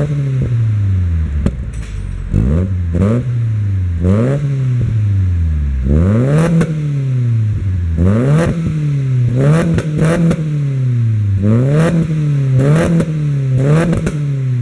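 Honda Civic's D15B 1.5-litre four-cylinder engine being blipped repeatedly through an Aurora Thunder Attack rear muffler: each rev climbs quickly and falls back to idle, with a crackle at the top of most blips.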